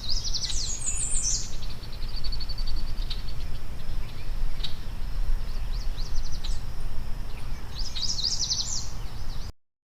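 Small birds chirping in quick high runs, a burst near the start and another about eight seconds in, over a steady low rumble; the sound cuts off suddenly just before the end.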